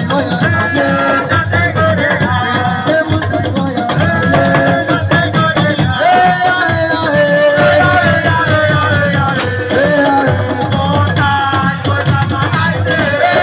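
Senegalese assiko band music: a voice singing over drums and shakers.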